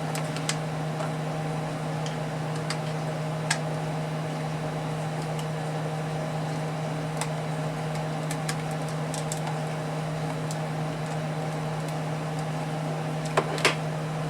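Steady hum of a running fan, with scattered light clicks and a couple of sharper clicks near the end.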